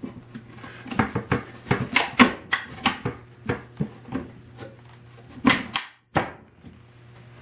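Wooden parts of a machinist's tool chest being handled and fitted into place: a run of irregular knocks and clicks, with a brief break to silence about six seconds in.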